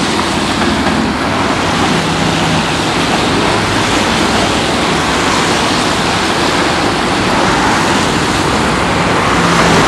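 A train passing close by: a steady, loud rushing noise with a faint low hum.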